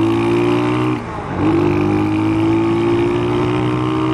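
Vento Nitrox 250's single-cylinder 250 cc engine pulling under acceleration, its pitch climbing steadily. About a second in the note breaks off and drops for an upshift, then climbs again.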